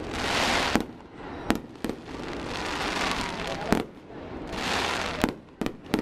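Aerial firework shells bursting overhead: about seven sharp, irregularly spaced bangs, with swells of hissing crackle between them.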